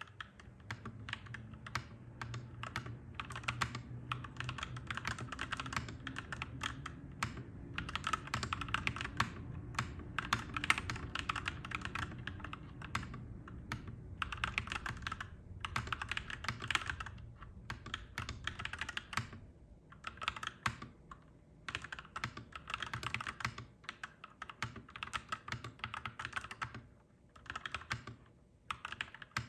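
Clacky mechanical keyboard being typed on in quick runs of keystrokes with short pauses between them. A low rumble sits underneath and fades out after about twenty seconds.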